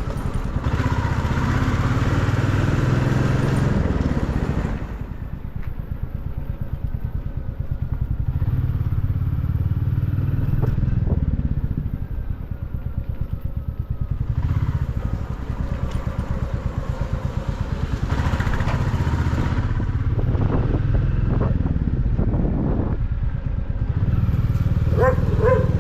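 Motorcycle engine running while riding, easing off twice and picking up again as the throttle changes. A few short pitched calls sound near the end.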